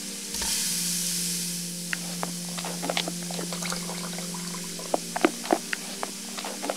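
Sliced tomatoes tipped into a nonstick pan of onions frying in hot oil: a burst of sizzling for about a second and a half, then scattered crackles and clicks of spattering oil and stirring in the pan.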